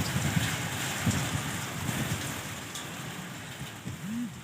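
Heavy rain pouring down: a steady, even hiss of falling rain.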